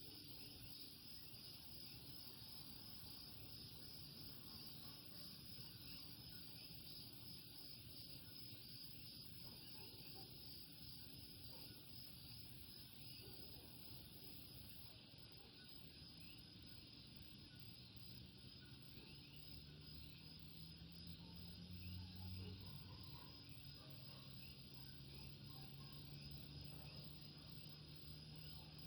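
Faint, steady night chorus of Puerto Rican coquí frogs and trilling insects. In the last third a low engine hum swells and fades, loudest about three-quarters of the way through.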